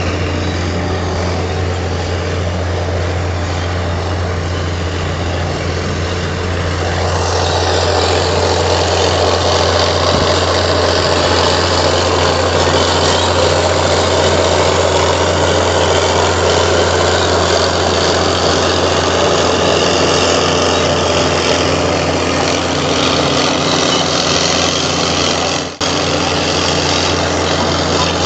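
Komatsu D58 bulldozer's diesel engine running steadily with a deep hum, growing louder and fuller from about seven seconds in, with a brief break near the end.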